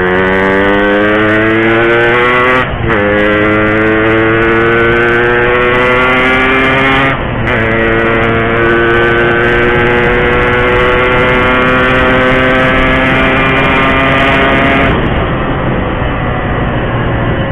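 Yamaha RX-King 135 cc two-stroke single-cylinder motorcycle engine accelerating hard through the gears: the pitch climbs, steps down at upshifts about three and seven seconds in, then climbs in one long pull until the throttle closes near the end.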